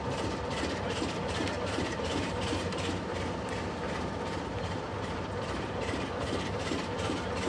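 Heritage railway coach running slowly along the track: a steady low rumble with a fast, regular clicking from the running gear, about three clicks a second.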